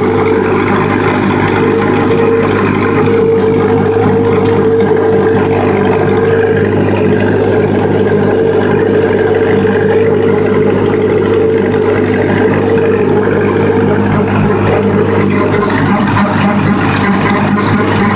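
Tractor engine running steadily under load while pulling a brush hog (rotary cutter) through a field, with an even drone throughout. The tone shifts slightly about fifteen seconds in.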